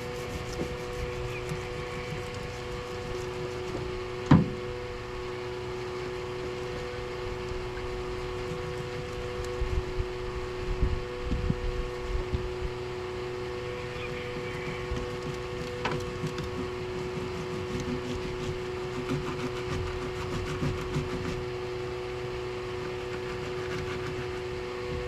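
A steady electric hum made of two close tones, with a single sharp knock about four seconds in and a few dull thumps around ten to twelve seconds.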